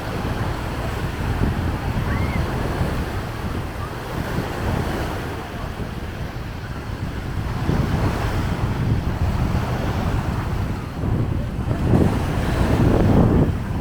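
Sea waves washing onto the beach, with wind buffeting the microphone in gusts that grow stronger in the second half.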